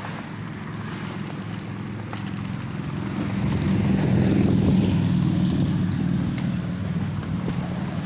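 Low wind and road rumble on the microphone during a bicycle ride. It swells about four seconds in and then eases, with a brief quick run of light ticks about two seconds in.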